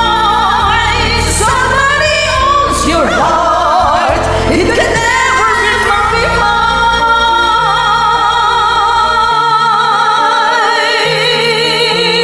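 Karaoke singing of a song over a backing track, ending in long held notes with vibrato; the bass drops out about nine seconds in.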